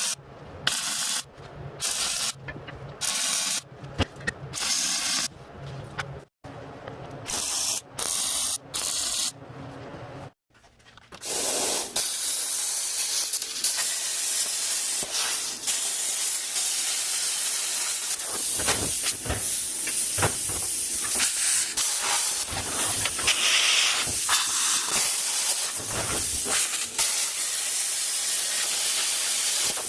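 Plasma cutter cutting sheet steel. It hisses in short starts and stops at first, then about eleven seconds in it settles into one long continuous cut with a steady crackling hiss.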